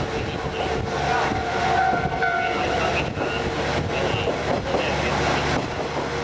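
KiHa 48 diesel railcar of a trolley train running along the line, heard from aboard the open-air car: a steady, loud rumble of engine and wheels on the rails with some thin tones over it.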